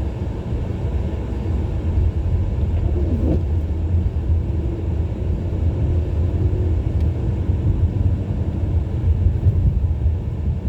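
Steady low rumble of a 2017 Ford Edge SEL driving slowly, heard from inside the cabin: road and engine noise on a snow-covered street.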